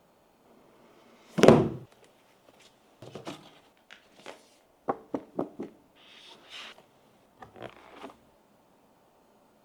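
Handling noises while unboxing a tablet: one loud thump about a second and a half in, then a scatter of short clicks, knocks and brief rustles as the box and its contents are handled.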